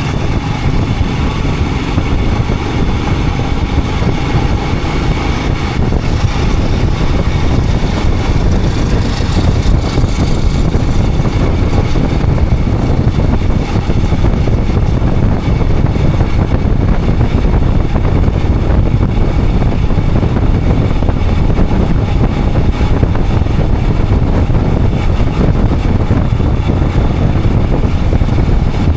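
Royal Enfield Himalayan 411's single-cylinder engine running steadily while the motorcycle rides on, mixed with a steady rushing noise.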